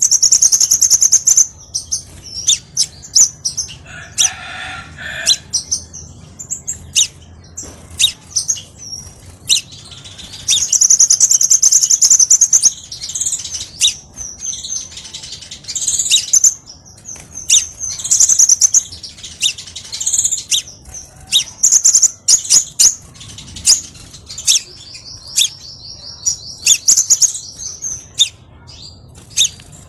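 Crimson sunbird (kolibri sepah raja) calling: loud, high-pitched sharp chirps and rapid trills, with a few longer trilling runs among the short notes.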